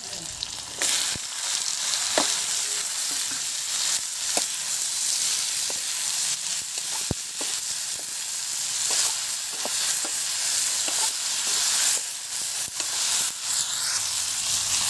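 Diced potatoes frying and sizzling in hot oil in a kadai, the sizzle jumping up about a second in as they hit the oil. A steel ladle clinks and scrapes against the pan as they are stirred.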